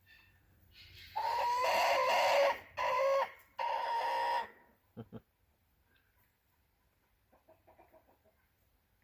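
A rooster crowing once, a call in three parts lasting about three and a half seconds, followed by two soft knocks.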